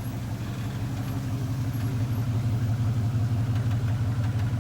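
Car engine idling, a steady low engine note that grows a little louder toward the end.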